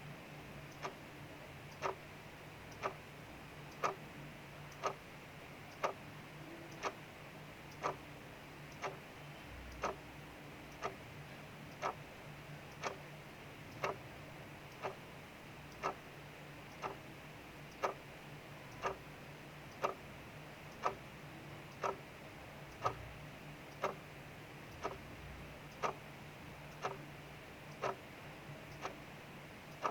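Mechanical clock ticking about once a second, alternating louder and softer ticks, over a steady soft hiss of rain outside and a faint low hum.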